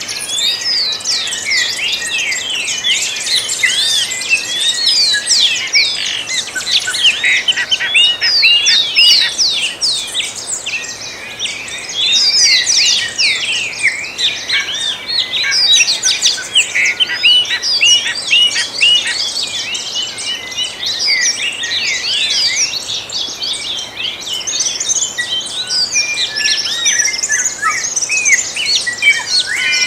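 Many birds singing together in a dawn chorus: a dense mass of quick, overlapping chirps and whistled notes.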